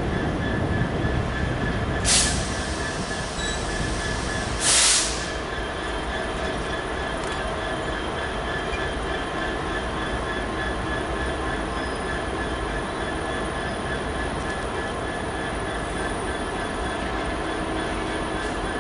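Train running on the rails with a steady rolling noise. Two short, louder hissing bursts come about two and five seconds in.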